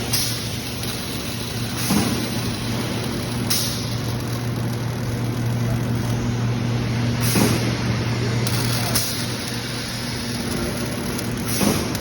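Machinery of a robotic frame-welding line: a steady low hum under a noisy haze, with short bursts of hiss at irregular intervals of a couple of seconds.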